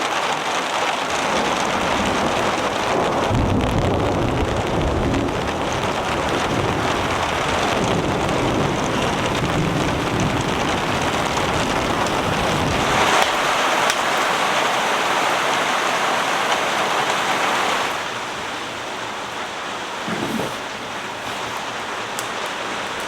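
Heavy rain falling steadily, with a long low rumble of thunder from about three seconds in to about twelve seconds. The rain eases to a quieter hiss near the end.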